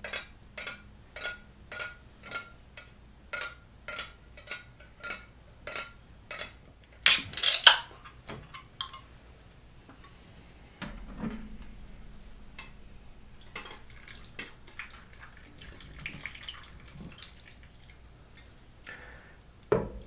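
Ice cubes dropped one by one into a bowl, each landing with a sharp clink and a brief ring, about two a second. A louder jumble of clinks comes about seven seconds in. Later comes a quieter stretch of liquid being poured over the ice, coconut water.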